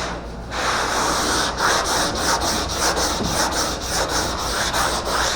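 80-grit sandpaper on a sanding block being rubbed back and forth over a car's roof panel, a rasping scrape in repeated strokes a few times a second, starting about half a second in.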